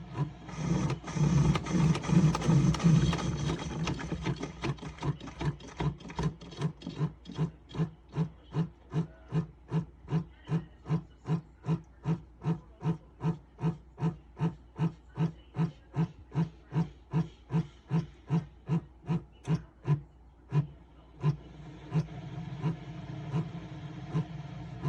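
SiFENE single-serve coffee maker's pump running while it brews, with an even pulsing about twice a second after a denser, louder first few seconds. The pulsing breaks off briefly near the end, then the machine runs on more steadily.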